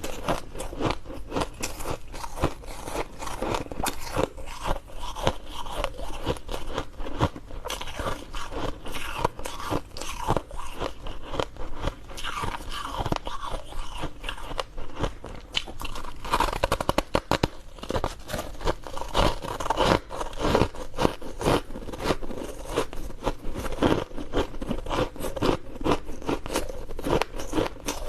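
Ice being bitten and chewed close to the microphone: a long run of dense crunching and cracking, with many sharp cracks close together.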